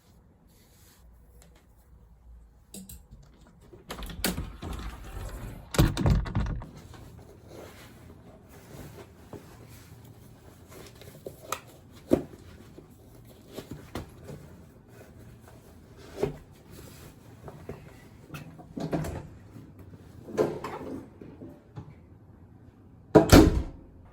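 Irregular knocks, clunks and rustling of gear being handled, with a cluster of louder thuds around four to six seconds in and the loudest thud near the end.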